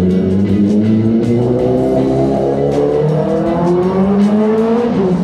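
Motorcycle engine accelerating, its note rising steadily for about four seconds, then dropping sharply near the end as the throttle closes or it shifts gear. Background music plays along with it.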